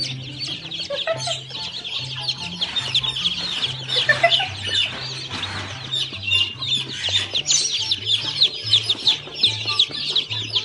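Chickens calling in a flock, many short high calls overlapping continuously, over background music with a repeating bass line.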